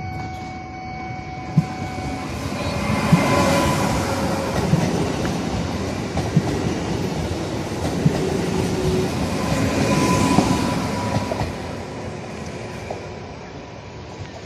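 Koleje Dolnośląskie Newag Impuls 31WE electric multiple unit passing close by, its wheels rumbling and knocking over rail joints. The sound swells as the cars go past, then fades as the train moves away.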